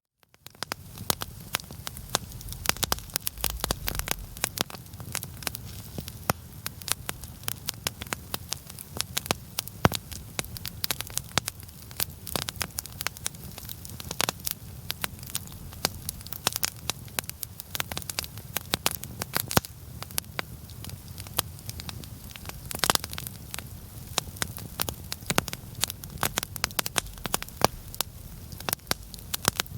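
Larch-wood campfire crackling, with frequent irregular sharp pops over a low steady rumble.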